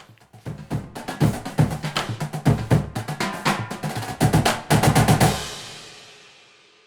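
Music led by a drum kit playing a run of fast snare and bass drum hits. It ends on a final hit about five seconds in that rings away.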